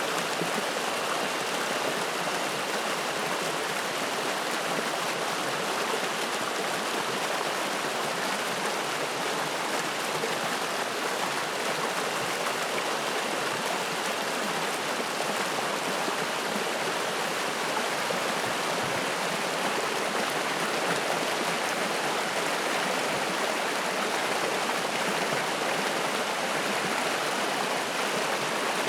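Spring-fed mountain stream flowing: a steady, even rush of water.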